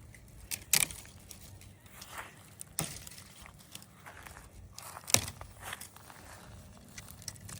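Footsteps and light rustling, with a few sharp clicks or snaps spaced a couple of seconds apart.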